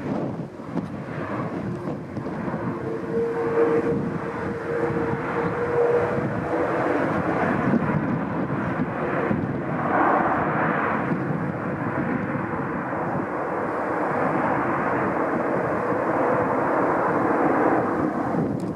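Airbus A330-900neo jet airliner on its landing approach, its Rolls-Royce Trent 7000 engines and airframe making a continuous loud jet roar that builds over the first few seconds and then holds steady, with a steady hum and a higher tone for a few seconds near the start.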